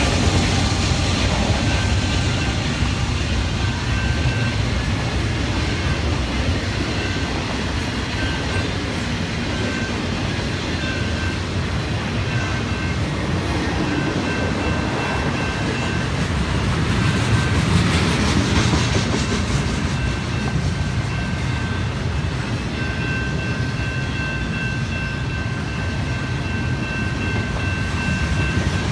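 Canadian Pacific freight train of autorack cars and double-stacked containers rolling past at steady speed: a continuous low rumble and wheel noise on the rails. A thin high tone comes and goes over it, held longest near the end.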